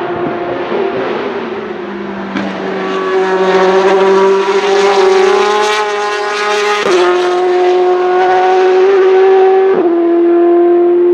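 Ferrari 458 GTC racing car's V8 engine running loud at high, steady revs, with two brief sharp dips in the note about seven and ten seconds in.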